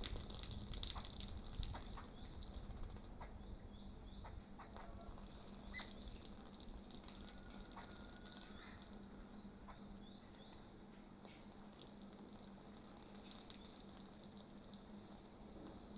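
Small birds bathing, splashing and fluttering in water, with short high chirps over a steady high hiss. The splashing is busiest in the first few seconds.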